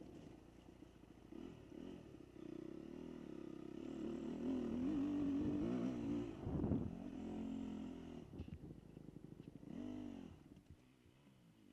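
Dirt bike engine running and revving, its pitch rising and falling as the throttle opens and closes. It is loudest in the middle, with a quick blip of the throttle near the end before it drops away.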